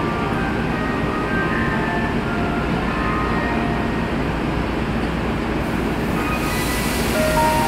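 Commuter train standing at an underground station platform with its doors open, its equipment giving a steady hum under scattered short faint tones; a hiss comes in about six seconds in, and just before the end a chiming, glockenspiel-like departure melody starts.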